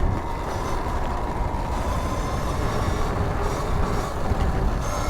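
A 2019 Sur-Ron electric dirt bike riding along: a steady high whine from the electric motor and drive, under a constant low rush of wind on a helmet-mounted lav mic.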